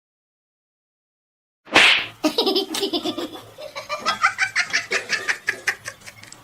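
Silence, then about two seconds in a person bursts into hearty laughter, in quick repeated pulses that slowly fade.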